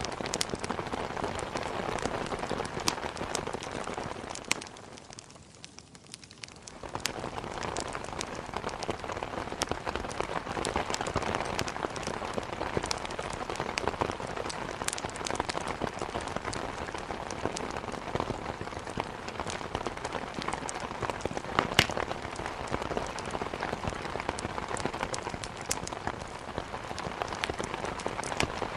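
Heavy rain falling steadily against a window, mixed with the sharp crackles and pops of wood burning in a fireplace; one pop stands out louder a little past twenty seconds in. The whole sound dips briefly about five seconds in, then comes back.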